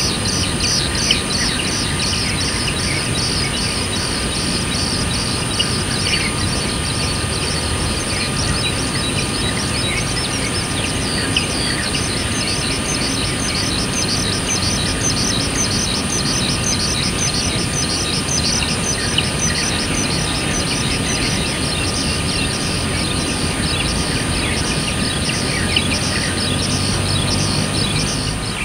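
Bird chirping over and over in a quick steady series, a few high chirps a second, over a constant low background rumble and a steady high hiss, with a few sharp clicks scattered through.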